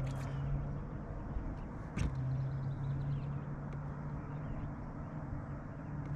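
Steady low hum of a boat's motor running, with one sharp click about two seconds in.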